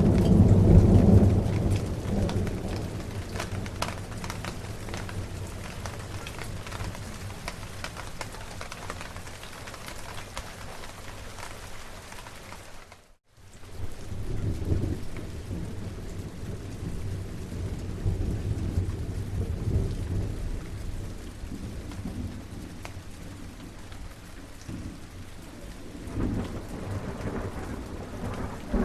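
Steady heavy rain with rolling thunder. A loud rumble dies away in the first couple of seconds, more rumbles come and go through the middle, and another builds near the end. The sound cuts out completely for a split second just before the midpoint.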